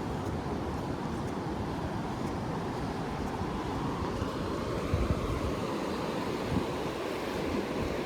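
Ocean surf washing onto a sandy beach in a steady wash of waves, with wind buffeting the microphone in a few low thumps around the middle.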